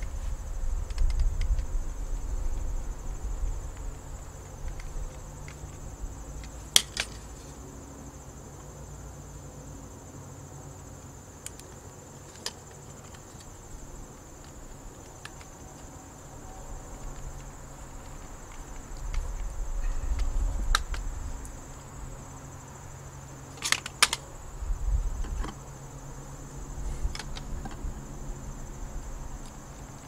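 Steady high insect chirring, like field crickets, with a few sharp clicks from the hands working a plastic RV power-cord plug and its set screws: one about seven seconds in and a pair near the three-quarter mark.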